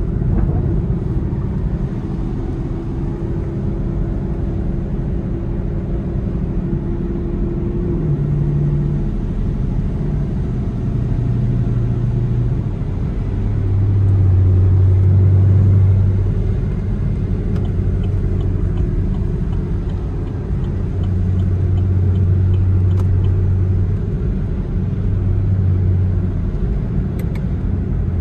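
Chevrolet Camaro SS V8 droning at a gentle cruise, heard from inside the closed cabin, the low engine note shifting in pitch a few times as speed changes, over steady tyre hiss on the wet road. A short run of faint, even ticks, about two a second, comes midway through.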